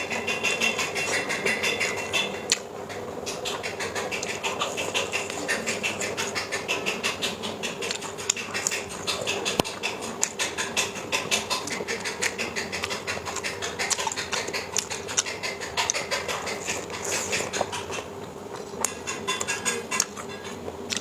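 Close-miked chewing and mouth sounds of someone eating boiled pig's trotters (jokbal): many small, wet, sticky clicks and smacks, one after another, over a faint steady background hum.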